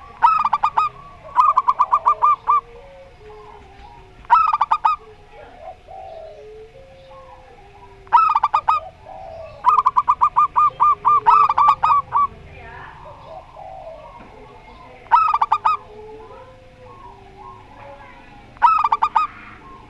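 Zebra doves (perkutut) cooing: loud bursts of quick staccato notes, each burst from under a second to about two and a half seconds long, about seven bursts in all. Fainter, lower bird calls come between the bursts.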